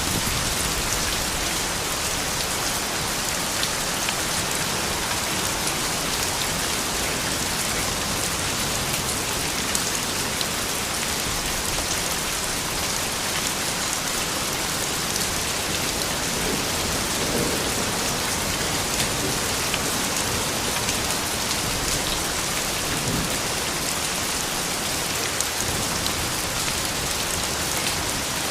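Steady rain falling, an even hiss with many small individual drop ticks.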